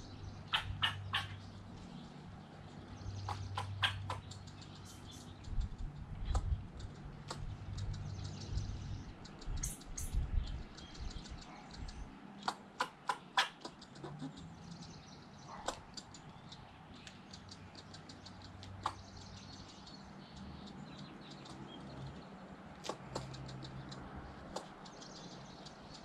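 Birds chirping, with short runs of three or four sharp clicks every few seconds, over a low steady hum.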